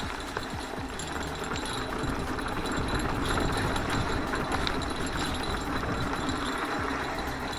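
Mountain bike rolling over a rough trail, with continual rattling and clicking from the bike.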